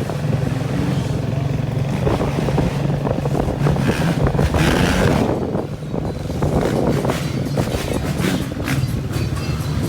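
A vehicle engine running with a steady low hum, with a rush of louder noise about four to five seconds in.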